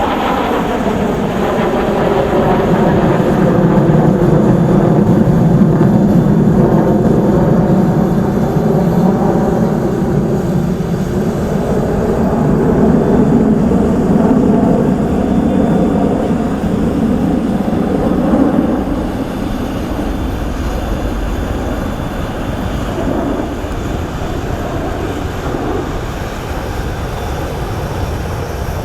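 Su-30SM fighter jets flying past with their engines running: the engine tone falls in pitch at the start as they pass, then a steady jet rumble that swells twice and drops to a lower level about two-thirds of the way through.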